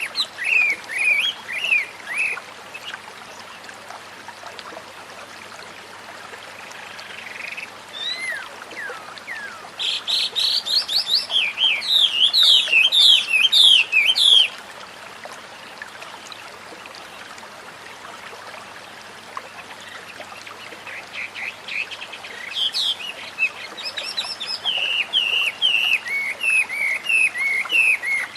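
White-rumped shama singing in bursts of rapid, varied whistled phrases separated by pauses, the longest and loudest burst about a third of the way in, over a steady wash of flowing water.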